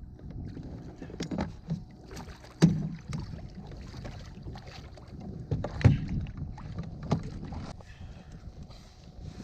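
Irregular knocks and clatter on a kayak while a pike is landed and handled aboard, with two sharp thumps about two and a half and six seconds in.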